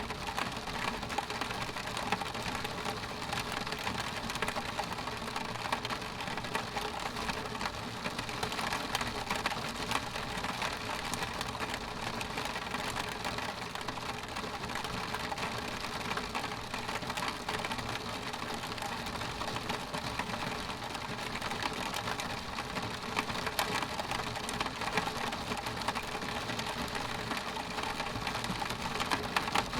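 Rain on a window pane: a steady, dense patter of many small drops ticking on the glass, with no thunder.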